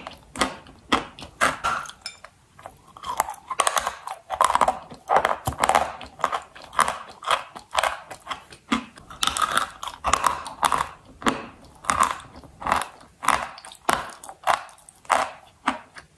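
Close-miked biting and chewing of dry white chalk: a steady run of crisp crunches, about two a second.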